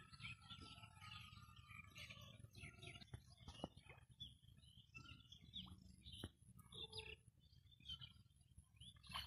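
Faint chirping of small birds, many short overlapping calls, over a low steady rumble.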